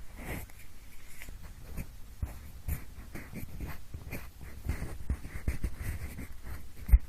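Pencil scratching and rubbing right at the microphone in short, irregular strokes, imitating the scraping of an ear pick in the ear canal. A louder knock comes near the end.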